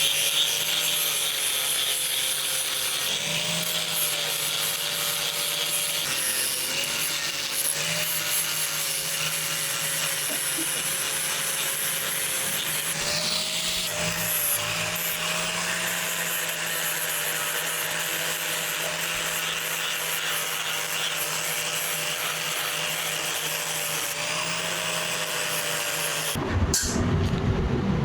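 Electric power grinder running steadily against the steel cleaver blade, a constant abrasive hiss over a motor tone that wavers slightly in pitch as the load changes. Near the end the sound changes abruptly to a louder low rumble.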